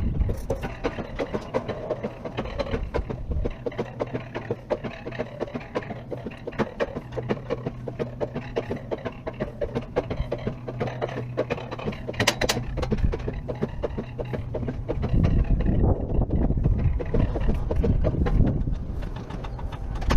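Self-driven alpine roller coaster running: a rapid, regular clicking of the cart on its track throughout, a steady low hum through the middle, then a louder low rush in the last few seconds.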